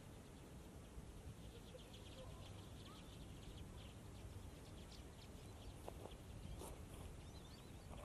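Faint high ticks and chips of small birds, in short clusters, over a low steady background rumble.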